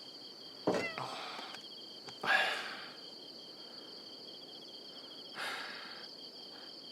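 Crickets chirping steadily in a high, pulsing trill, with three short, soft, breathy sounds such as a sigh. The loudest of these comes about two seconds in.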